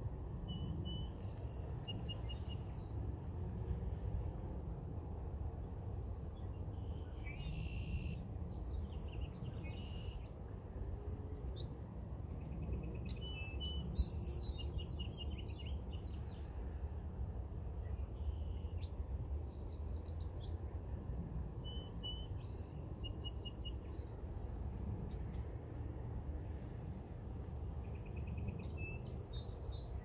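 Birds singing outdoors, with one trilled song repeating about every eight seconds over a steady run of short, evenly spaced chirps. A constant low rumble lies underneath.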